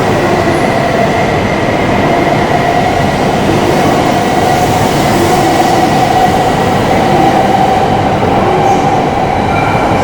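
Shinkansen train running along the platform in Ueno Station's underground concourse: a loud, steady rumble with a constant whine over it.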